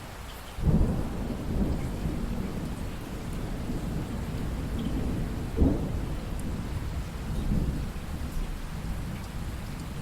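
Steady rain with a roll of thunder: a low rumble breaks in sharply about half a second in, swells again several times, and eases off near the end.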